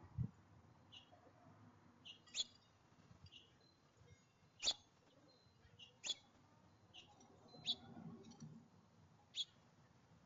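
Small songbirds at a feeder giving short, high chirps, with five sharper, louder chip notes spaced a second or two apart. A soft low thump comes right at the start.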